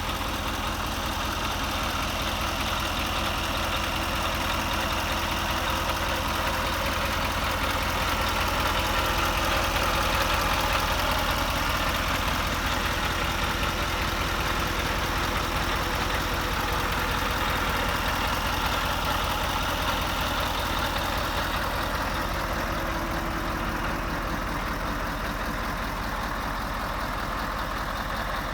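Scania R520's 16-litre V8 diesel engine idling steadily, swelling slightly louder for a few seconds about a third of the way in.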